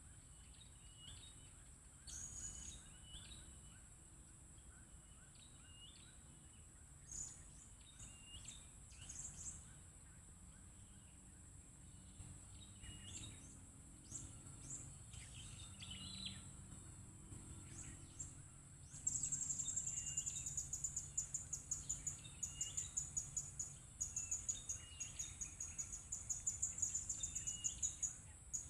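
Short, high-pitched bird chirps and quick downward-sweeping calls, repeated throughout, over a steady high insect drone. About two-thirds of the way in, a louder, rapidly pulsing insect chirp starts up.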